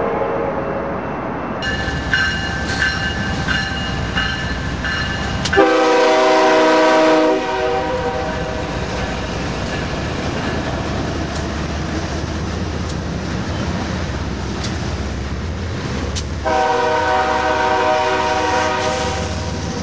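BNSF diesel freight locomotives passing close by, their engines and wheels rumbling steadily on the rails. A bell rings repeatedly for a few seconds about two seconds in. The locomotive horn sounds twice: a blast of under two seconds about six seconds in, and a longer one of about three seconds near the end. The first second or so is a separate shot, with a passenger locomotive's horn.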